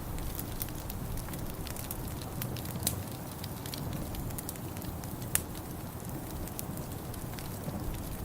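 Wood fire in a fireplace crackling, with scattered sharp pops (two louder ones about three and five and a half seconds in) over a low, steady rumble.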